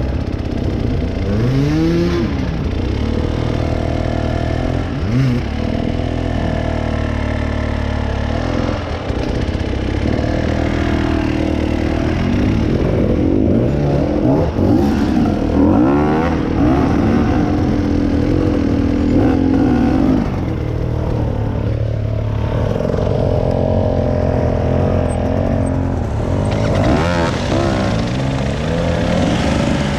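Off-road vehicle engine revving repeatedly, its pitch rising and falling, with a longer held high-revving stretch about halfway through.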